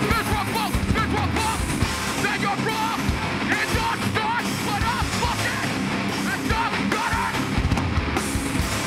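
Hardcore punk band playing live and loud: distorted guitars and fast, dense drumming, with yelling over it.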